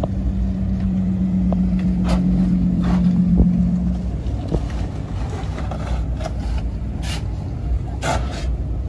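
Car engines running at a car meet as lowered cars are driven in: a low, even rumble with a steady drone that stops about four seconds in. Short bursts of hiss are heard twice early and twice near the end.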